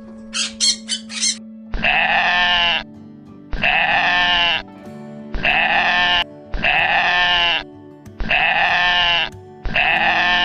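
A bleating farm animal call, repeated six times at even intervals, each call about a second long, over background music with steady held tones. A few short high chirps come just before the first bleat.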